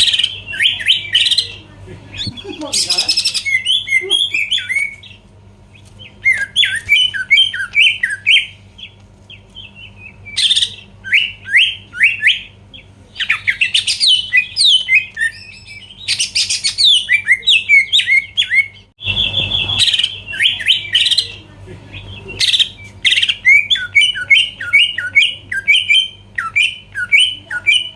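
Cucak ijo (green leafbird) singing loudly in rapid phrases of quick downward-slurred whistles and chattering notes, with short pauses between phrases; a faint steady low hum lies underneath.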